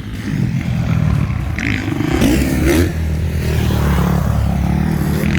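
Motocross dirt bike engines revving on the track, the pitch rising and falling as throttle is opened and closed, over a steady low rumble.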